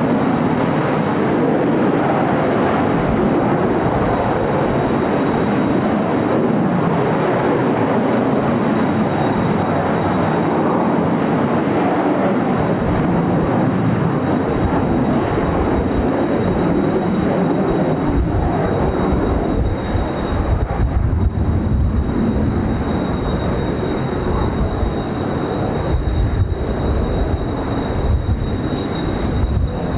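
Jet noise from the Blue Impulse team's Kawasaki T-4 trainers flying overhead, a loud continuous roar. A thin, steady high whine joins about a third of the way in. In the second half, strong wind buffets the microphone with uneven low rumbling gusts.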